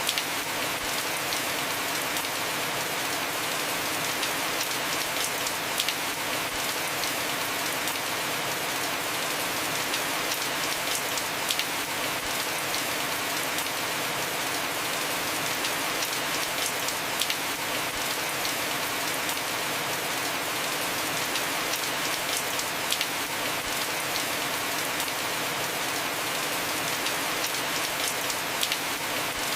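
Heavy rain falling steadily on a house roof, an even hiss with sharp ticks of single drops scattered through it.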